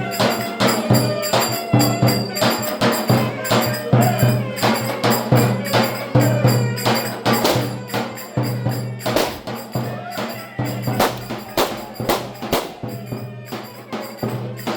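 Loud Turkish folk dance music (oyun havası) with a melody instrument over fast, steady percussion strikes.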